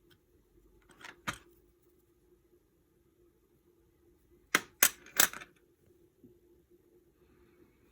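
Sharp metallic clinks of small metal parts or tools being handled: two about a second in, then three louder ones in quick succession about halfway through. A faint steady hum lies beneath.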